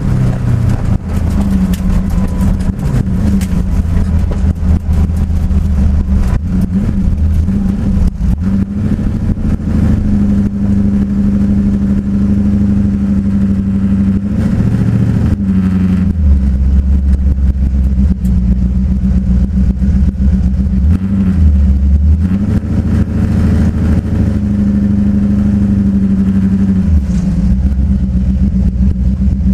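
Twin-turbo Mustang drag car's engine running loudly, holding a mostly steady note with brief rises and dips in revs several times.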